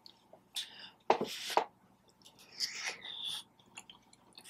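Quiet mouth and chewing sounds of someone eating pasta, a few short scattered noises, the loudest just over a second in.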